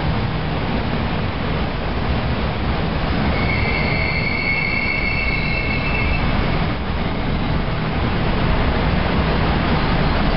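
Tokaido Shinkansen train running past with a steady rumble, and a high metallic wheel squeal about three seconds in that lasts a couple of seconds.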